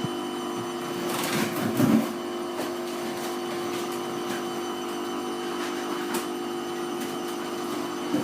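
Hoover Vision Tech washing machine running its Mixed 40°C wash: a steady motor hum with a whine as the drum turns, and a louder swish of the load about a second in.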